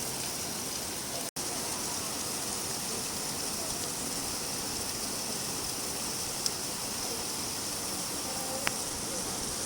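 Steady rainfall, an even hiss of rain with a couple of single drop ticks later on. The sound cuts out for an instant about a second in.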